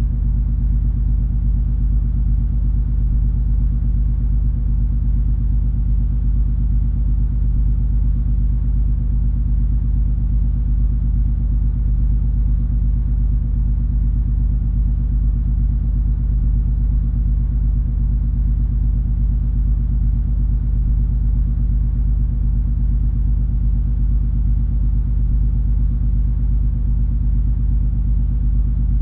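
Steady low rumble and hum of the cruise ferry MS Color Magic underway, its engines droning with a few constant low tones and no change in pace.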